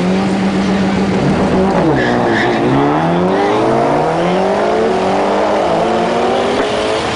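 Drag-racing vehicle engine held at steady high revs, dropping in pitch about two seconds in, then climbing slowly and steadily in pitch as the vehicle accelerates away from the line.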